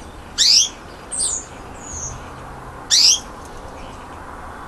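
Budgerigars calling in short, sharp chirps that sweep down in pitch. Loud ones come about half a second and three seconds in, with fainter calls between.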